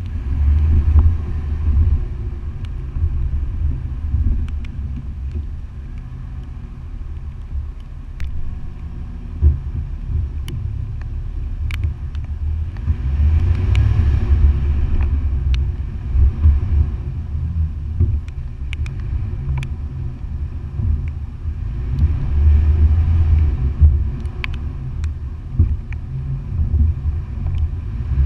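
Toyota FJ Cruiser's V6 engine running at low speed while fording a river, a deep rumble that swells and eases, with water washing against the vehicle and scattered sharp clicks.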